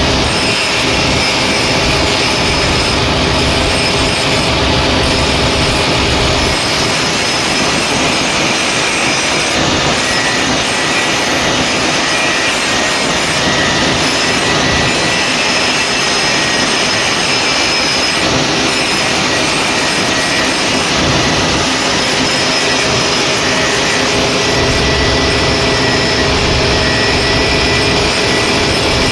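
Steady, loud machine noise that runs without a break, with a few faint held tones on top.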